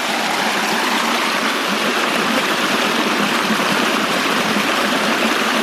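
Waterfall water rushing, a steady, even rush.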